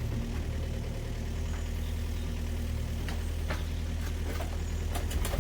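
An engine idling steadily, with a few faint clicks in the second half.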